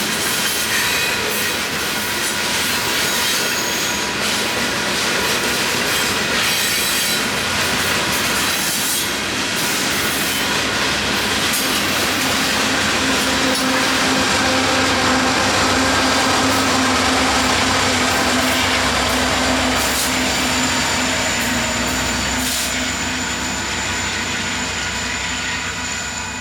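Union Pacific freight train rolling past: a continuous rumble of wheels on rail with high-pitched wheel squeal and clicking over the rail joints. About halfway through, a deeper steady hum rises beneath it and eases off near the end.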